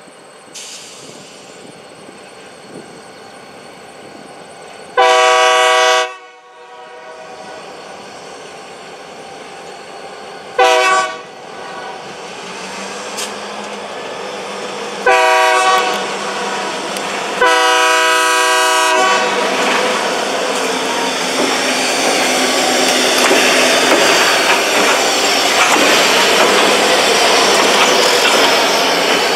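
Diesel freight locomotive's air horn sounding four blasts for a road level crossing, the second one short and the last one longest. Afterwards the locomotives' diesel engines and steel wheels get steadily louder as they pass close by.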